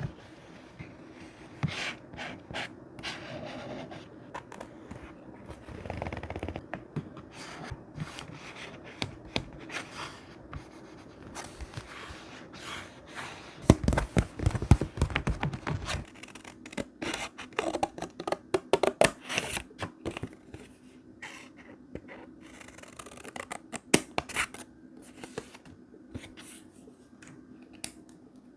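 Close-up sounds of thick paper being handled and cut for a collage journal: irregular small snips, scrapes and rustles, with a louder, denser stretch of rustling about halfway through.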